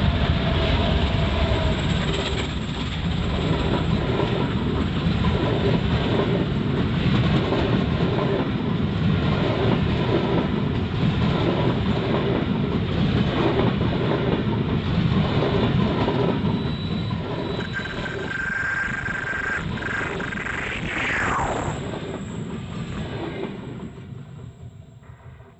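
Train wagons rolling past, their wheels clattering over the rail joints in a steady rhythm. Near the end a high steady tone and then a falling whine come through, and the clatter dies away as the train moves off.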